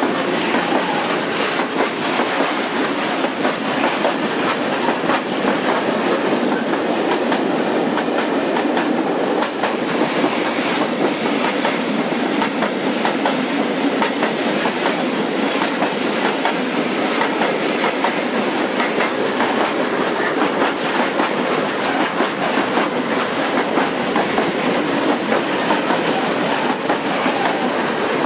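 Freight train wagons rolling steadily past, wheels clattering over the rail joints under a continuous loud rumble.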